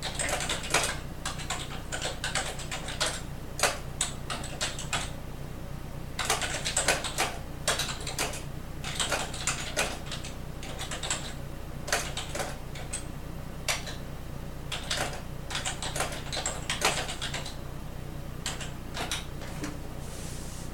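Typing on a computer keyboard: runs of quick keystrokes with short pauses between them, over a steady low hum.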